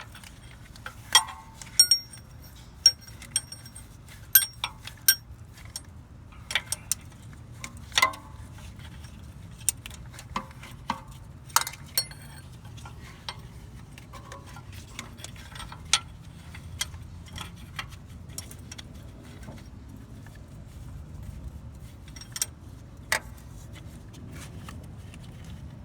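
Hand tools clicking and clinking on metal as the CV axle's mounting bolts are snugged down: irregular sharp metallic clicks, close together in the first dozen seconds and sparser after that.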